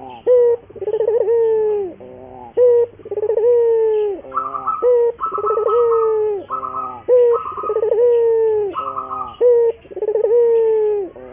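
Barbary dove (burung puter) cooing steadily: a repeated coo about every one and a half seconds, each a quick stuttered start running into a long drawn-out note that falls away at the end.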